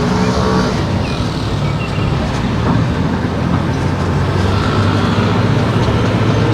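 Car driving along a town street: a steady low engine and road drone with tyre noise.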